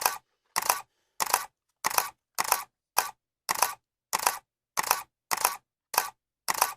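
Camera shutter clicking over and over at an even pace, a little under two clicks a second, each a quick double clack.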